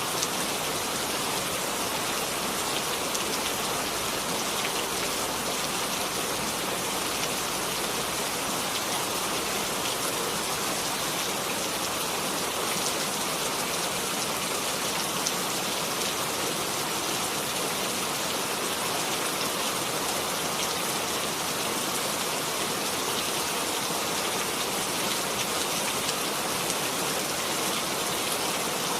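Steady rain falling and pattering on a surface, a dense even hiss with many fine drop impacts.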